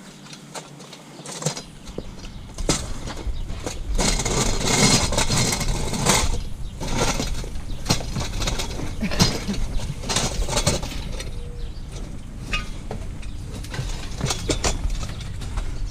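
Clattering and knocks of scrap items being handled and stacked, over a steady low rumble. The knocking is busiest through the middle.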